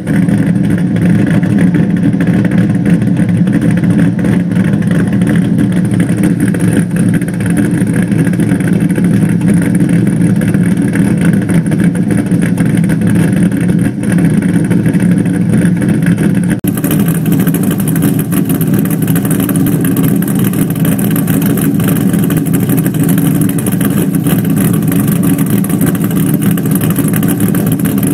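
Exhaust of a 408 cubic inch LQ9-based stroker V8, with long-tube headers, 3-inch true dual pipes with an X-pipe and Dynomax Bullet mufflers, running steadily with a deep rumble. About two-thirds of the way through the sound changes abruptly to a brighter, hissier tone.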